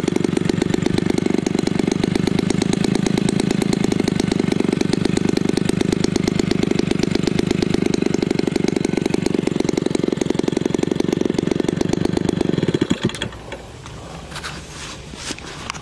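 Homelite 30cc two-stroke engine, converted from a leaf blower for a model airplane, running steadily at high speed, then throttled sharply back about 13 seconds in to a low, uneven idle.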